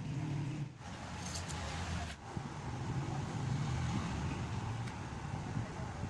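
Low, uneven engine rumble, like motor traffic running steadily.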